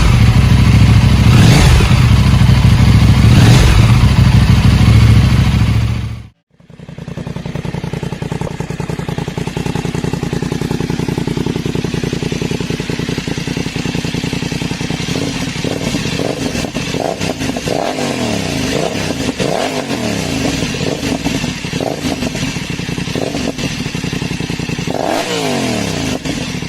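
Parallel-twin sport motorcycle engine running hard and loud under acceleration. About six seconds in it cuts off abruptly and gives way to a quieter engine running steadily, with repeated throttle blips that make the revs rise and fall.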